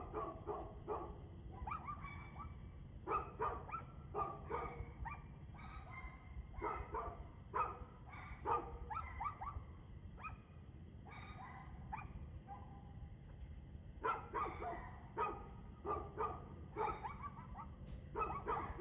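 A dog barking over and over in runs of several quick barks, with pauses of a second or two between runs, over a steady low rumble.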